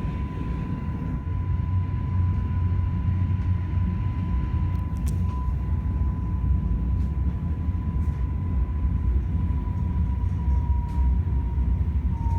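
Polish EN57 electric multiple unit running, heard from inside: a steady low rumble with a thin, steady high whine over it and a few faint clicks.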